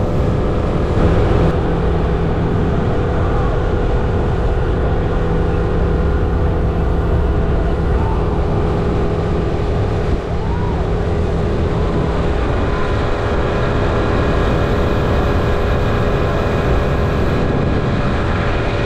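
Outboard motor of a 24-foot Carolina Skiff running steadily at speed, about 30 mph, with a constant rush of wind and water over the hull.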